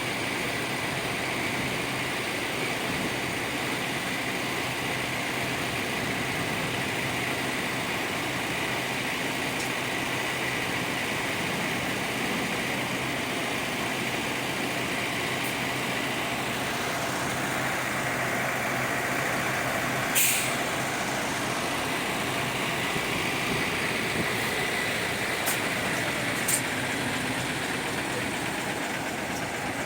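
Large diesel bus idling with a steady drone and a faint whine. About twenty seconds in comes one short hiss of air, like an air brake release, and a couple of light clicks follow a few seconds later.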